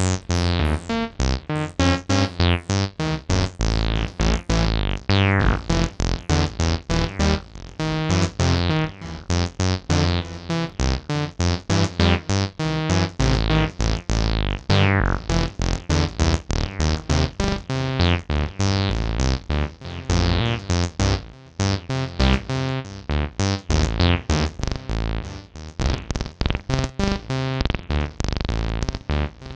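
Acid synth line from AcidMachine: a fast, continuous sequence of short, staccato notes, many with a squelchy downward filter sweep, over a deep bass.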